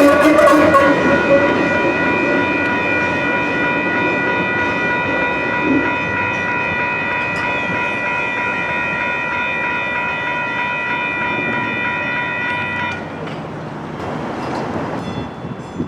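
Light rail train passing over a street grade crossing: rumbling running noise under a steady high-pitched tone of several pitches that cuts off suddenly about thirteen seconds in.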